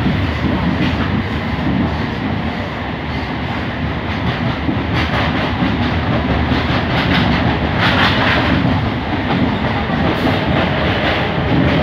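Train running, heard from inside the passenger coach: a steady rumble of wheels on the track, with clattering from about five seconds in and again near the end.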